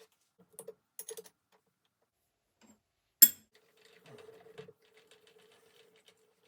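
Scattered small clicks and knocks of metal tools and parts being handled at a lathe, with one sharp, ringing metallic clink a little over three seconds in.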